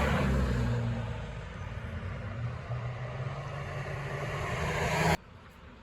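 Motorized bicycle's small two-stroke engine running, its pitch sagging and then climbing again as the revs rise. The sound cuts off abruptly about five seconds in.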